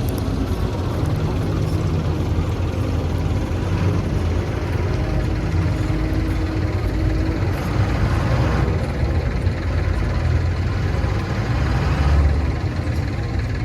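Heavy farm-vehicle diesel engine running steadily.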